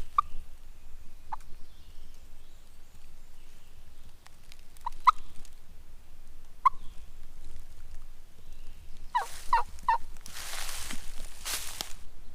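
Wild turkey yelps: a few scattered single notes, then a short series of about four falling notes near the end. A burst of rustling in leaves follows.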